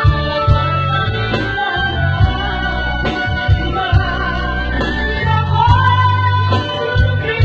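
Singing with instrumental backing: a sung melody over sustained bass notes and a steady light beat.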